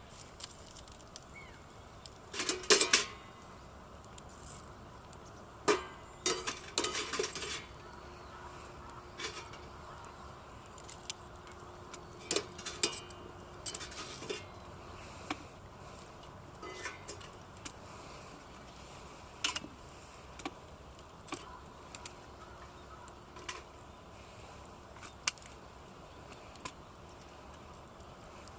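Metal camp cookware and utensils clinking and knocking as they are handled, in irregular clusters of sharp clinks. The loudest clusters come about two and a half seconds in and about six to seven seconds in.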